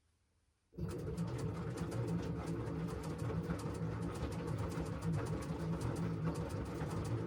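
LG washing machine in its wash cycle: after a short silence the drum starts turning again less than a second in, a steady low motor hum with the load tumbling and a fine rattle of clicks.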